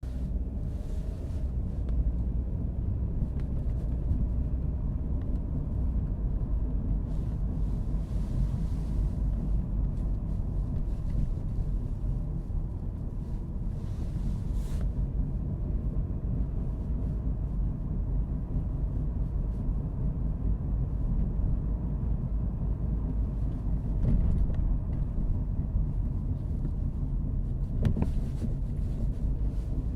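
Car driving at a steady pace, its engine and tyre noise making a steady low rumble, with a faint steady hum and a light click or two near the end.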